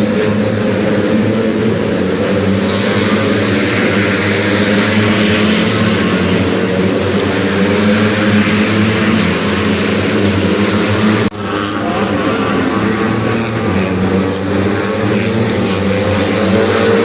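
Several racing underbone motorcycle engines running hard together, their pitches rising and falling as the riders work the throttle. The sound breaks off abruptly and resumes about eleven seconds in.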